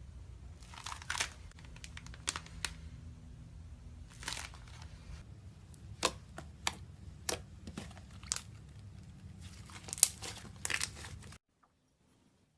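Slime being pressed and worked by hand, giving sharp crackles and pops at irregular intervals, the loudest about ten seconds in. The sound cuts off abruptly near the end.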